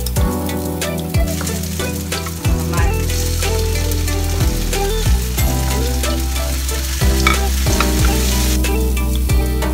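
Garlic and onion sizzling in hot oil in a nonstick wok, stirred with a wooden spatula, with chopped tomatoes tipped in partway through. Background music with a steady beat plays over the sizzling.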